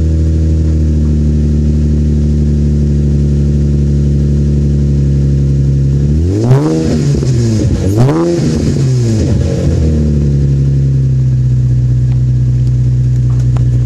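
2005 Infiniti G35 coupe's V6 idling after a cold start through an Injen dual titanium exhaust with Magnaflow X-pipe, heard right at the tailpipe. About six seconds in, the engine is revved twice in quick succession, each rev rising and falling, then it settles back to a steady idle.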